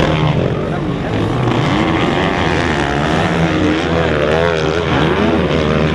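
Several motocross motorcycle engines running and revving together, their pitches rising and falling and overlapping over a steady low drone.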